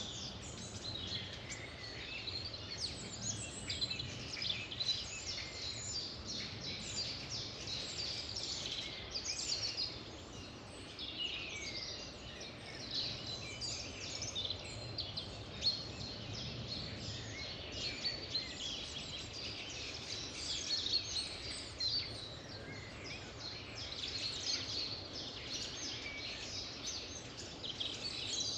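Many songbirds singing and chirping at once, a dense, continuous chorus of quick high trills and chirps over a faint low background hum.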